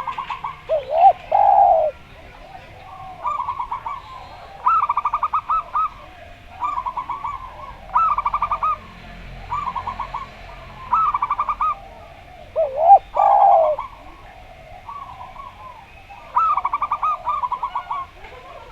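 Zebra dove (perkutut) singing its long cooing song in repeated phrases of rapid staccato notes, one every second or two. A spotted dove (derkuku) answers with a louder, lower swooping coo twice, near the start and about two-thirds of the way through.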